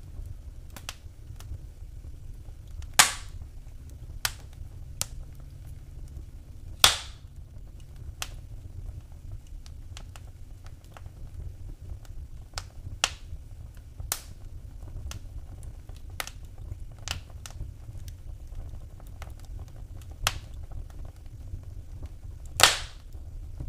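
Wood fire crackling in a fireplace: scattered sharp snaps and pops over a low steady rumble. Louder pops come about three seconds in, about seven seconds in, and near the end.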